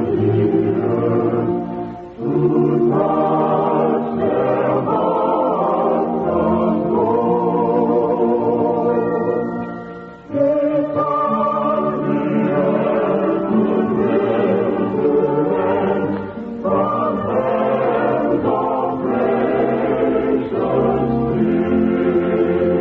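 A choir singing held, wavering chords, with short breaks between phrases about two and ten seconds in.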